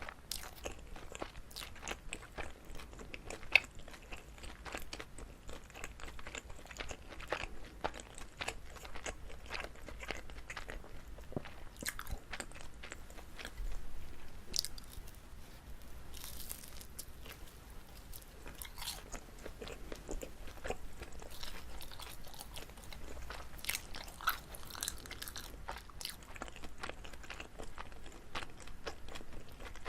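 Close-miked chewing of chewy pan-fried rice cake filled with gondre greens: wet, sticky mouth sounds with many small clicks.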